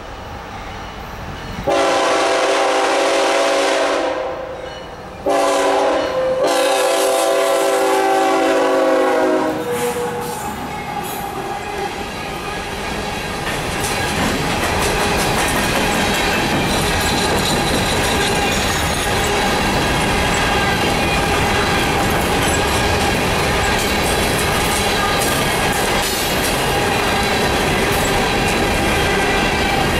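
Diesel locomotive air horn on the lead unit, a GE ET44AC, sounds two long chord blasts in the first ten seconds. Then the train passes close by: empty coal hopper cars roll past with a steady clatter of wheels over the rail joints.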